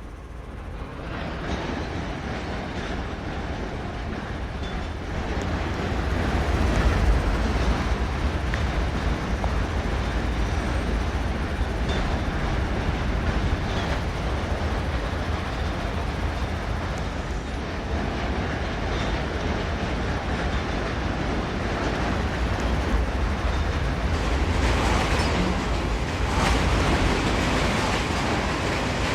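Norfolk Southern freight train rolling past, its cars running on the rails. The sound swells about a second in and holds steady.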